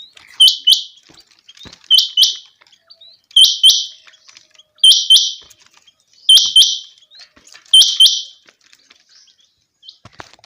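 Common quail calling: its sharp, liquid song phrase, a faint lead note then two loud quick notes, repeated six times at an even pace of about one phrase every second and a half.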